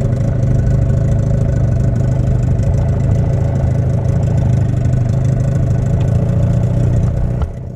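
Boat's outboard motor running steadily with an even hum, dropping off sharply near the end.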